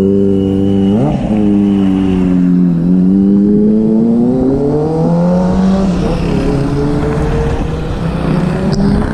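Motorcycle engine running loudly, blipped up and back down once about a second in, then rising slowly in pitch over a few seconds before settling at a steady speed. The sound changes abruptly near the end.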